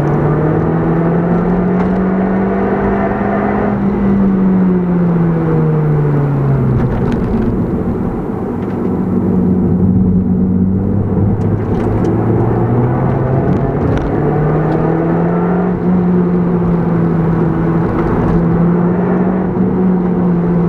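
Toyota Yaris GRMN's supercharged four-cylinder engine heard from inside the cabin under hard driving. The revs climb for the first few seconds, drop away as the throttle comes off, sit low, then build again about two-thirds of the way through and hold, over steady tyre and road noise.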